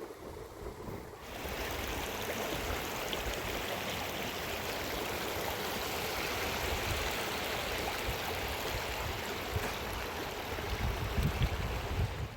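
Rushing water, a steady noise that starts suddenly about a second in, with uneven low rumbling near the end.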